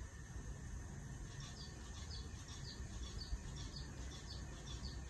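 A small bird chirping repeatedly in short high notes, about two a second, starting about a second and a half in, over a steady low background rumble.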